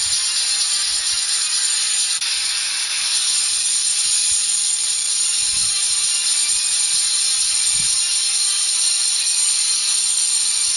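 Toy Ferris wheel running, its small motor and gears making a steady whirring hiss.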